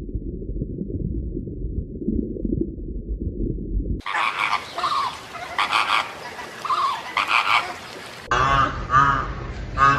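Animal calls in quick succession across three short clips: a low, muffled sound first, then repeated short calls, then honking geese from about eight seconds in.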